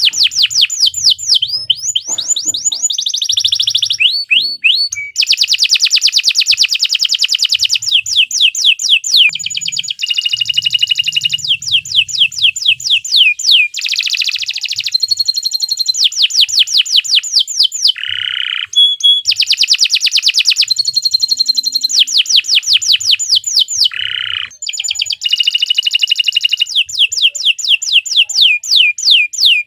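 Domestic canary singing a long, continuous song of rapid trills and rolls: phrase after phrase of fast, repeated high notes, each phrase a few seconds long with only brief breaks between.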